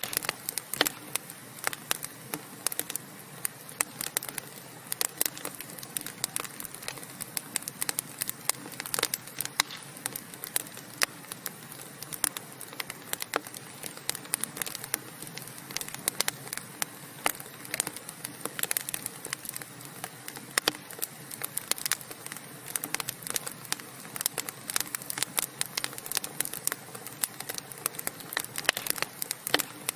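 Wood fire burning in a fireplace: a dense, irregular crackling of many sharp pops and snaps over a steady soft hiss.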